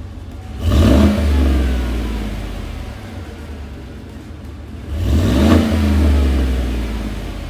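2017 Chevrolet Silverado's 5.3-litre V8 exhaust at idle, revved twice. Each rev is a quick blip, about half a second in and again about five seconds in, and each settles slowly back to idle.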